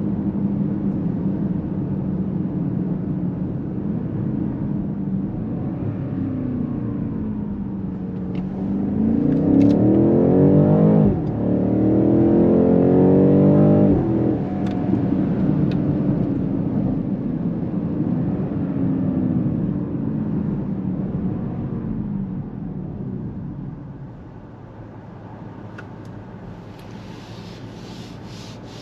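2023 BMW X7 M60i's twin-turbo V8 engine heard from inside the cabin, running steadily, then under hard acceleration with the revs climbing and falling sharply at two upshifts about eleven and fourteen seconds in. It then eases off and is quieter for the last few seconds.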